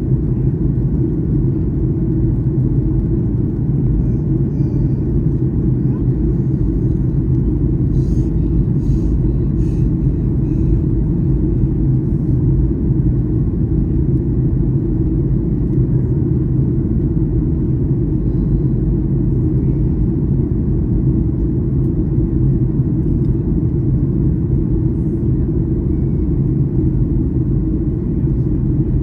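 Steady low rumble of cabin noise inside a Boeing 737-800 airliner in flight: engine and airflow noise, unchanging throughout.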